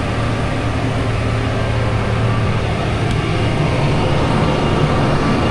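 Case IH Maxxum 150 tractor's diesel engine and Case IH DC133 disc mower-conditioner running steadily while mowing alfalfa, a continuous low drone with a dense mechanical hash over it.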